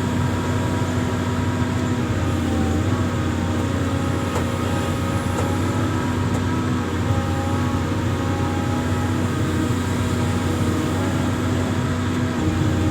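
Amphibious excavator's engine running steadily with a constant hum.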